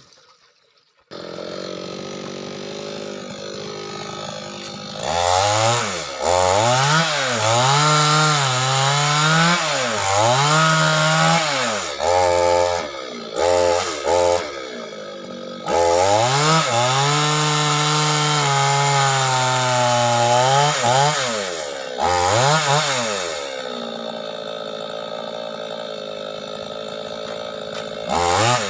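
Chainsaw engine: it comes in idling about a second in, then is revved up and down repeatedly, held at high speed for several seconds at a time, and drops back to idle near the end before revving once more.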